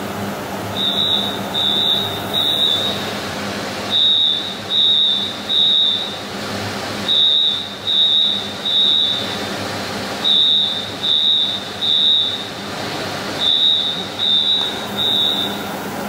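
Fire alarm sounding the three-beep evacuation pattern: three high-pitched beeps, a pause, then three more, five times over, above a steady low hum.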